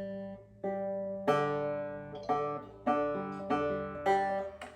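Ortega Falcon banjo strings plucked one at a time, about six bright ringing notes at a few different pitches, each fading before the next. The notes are single strings checked in turn during tuning.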